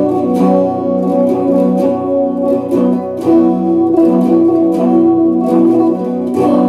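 Epiphone Les Paul Special II electric guitar playing chords picked note by note, each note left ringing into the next.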